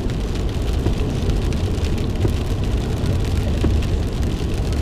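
Steady road and engine rumble heard from inside a moving car, with rain striking the car in scattered sharp ticks.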